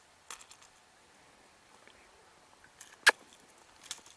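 A few light clicks and rattles from handling, with one much louder sharp click about three seconds in.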